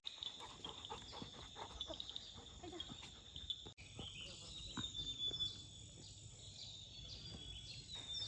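Insects chirping in a steady, high-pitched chorus with repeated trills, over faint scattered rustling.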